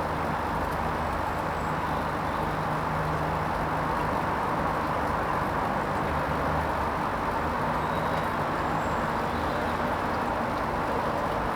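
Hoover Vision HVP16 washing machine running its Silks 30 programme: a steady low hum under an even whooshing noise.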